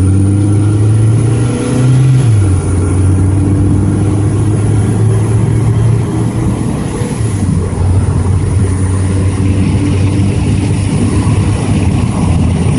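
A four-cylinder Mazda 626 engine accelerating, heard inside the cabin with the windows down, its exhaust fitted with a turbo-whistle insert. The engine note drops about two seconds in, as at a gear change, then holds steady under road and wind noise.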